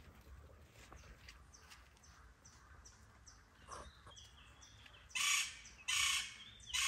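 A bird chirping, a run of short, high chirps that each slide down in pitch, repeated a couple of times a second. About five seconds in come three loud, short bursts of rustling noise.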